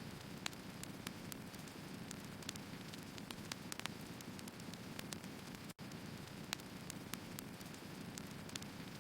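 Wood fire burning: a steady low rush with frequent sharp, irregular crackles and pops from the firewood. The sound cuts out for an instant about six seconds in.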